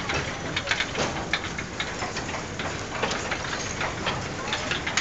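Narrow-gauge electric railway train running, with a steady noisy rumble and irregular clicks and clanks from the wheels and wagons on the track.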